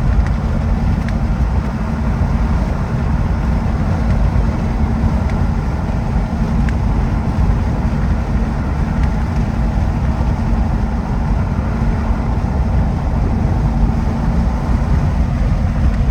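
Steady, loud low rumble of tire and road noise inside a Jeep's cabin as it drives along. The oversized tires make the ride noisy.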